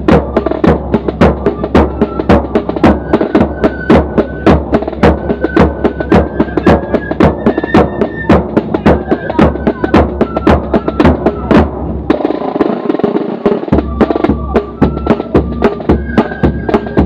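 Corps of drums and flute band playing a march close up: snare and bass drums beating a steady fast rhythm under a flute melody. The drums stop for a moment about three-quarters of the way in, then come back in.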